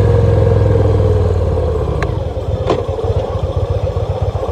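2014 Victory Cross Country's V-twin engine running under way, then easing off about two seconds in and settling into slow, uneven low pulses as the bike slows. Two short clicks come in the middle.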